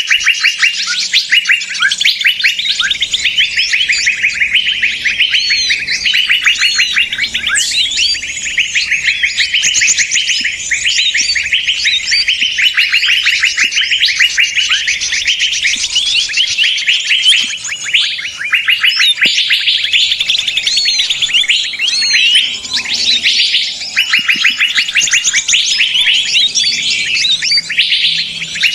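Loud, dense chorus of many small songbirds chattering and twittering at once, rapid overlapping chirps and trills with no pause: a 'noisy birds' lure recording used to attract wild birds.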